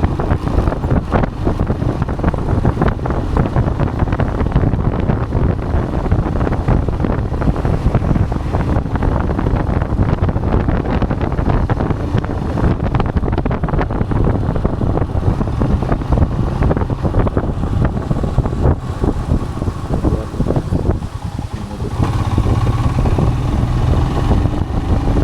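Royal Enfield Himalayan's single-cylinder engine running while the motorcycle is ridden, with wind buffeting the microphone. About three-quarters of the way through, the engine sound dips briefly, then comes back stronger.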